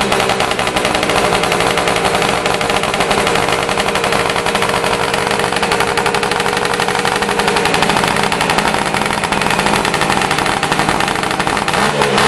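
Suzuki GT550's air-cooled two-stroke three-cylinder engine running at a fast, steady idle while warming up from a cold start, its exhaust a rapid stream of popping pulses. The revs settle just as it begins and rise again near the end.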